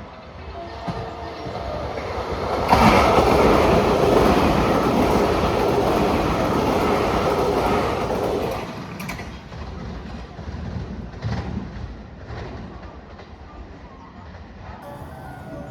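A train running along the track, loud for about six seconds starting a few seconds in, then dropping to a lower rumble with scattered rail clicks.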